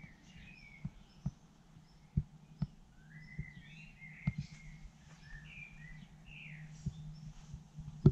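Small birds chirping and twittering in short rising and falling notes, over a low steady hum, with scattered light knocks at irregular intervals.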